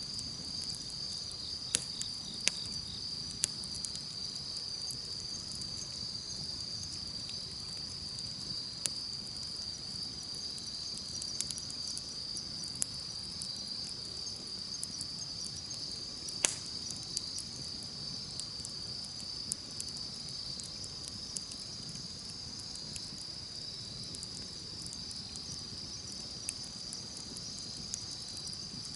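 Campfire crackling with scattered sharp pops, the loudest about sixteen seconds in, over a steady high-pitched chorus of insects.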